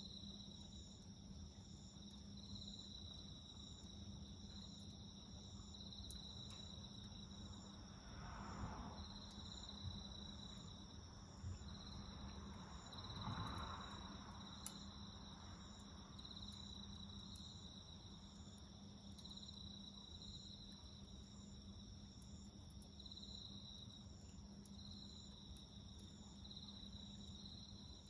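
Faint crickets chirping in a steady repeating pulse, about one chirp a second, over a low steady hum. Two brief swells of passing-car noise come about a third and half way through, with a few small pops from the fire.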